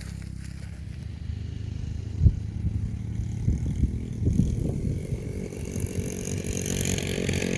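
Mountain bike riding over a dry dirt trail: a low rumble with the rattle and knocks of the bike over bumps, a sharp knock about two seconds in, and rising hiss toward the end.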